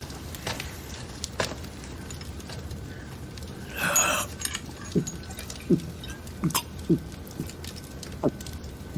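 Water dripping: single drops falling one at a time, about one every half second to second, from about five seconds in. Before them come scattered faint clicks and a brief rustle about four seconds in.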